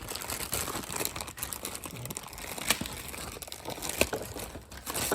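Plastic wrapping crinkling as a new cabin air filter is unwrapped, with many small sharp crackles.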